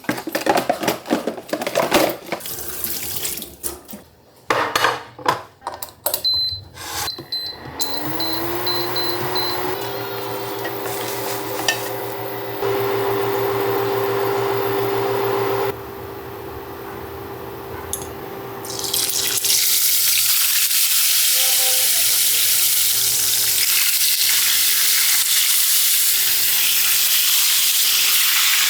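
Kitchen work: utensils and dishes clatter, then an appliance motor starts with a rising hum and runs steadily. Partway through, a loud steady hiss begins and continues, the sound of water running or food frying in a pan.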